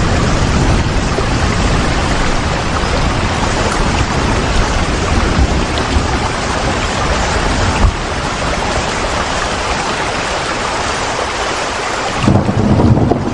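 Steady rain, an even loud hiss, over a low rumble of wind that fades by about eight seconds in and comes back abruptly near the end. A single knock about eight seconds in.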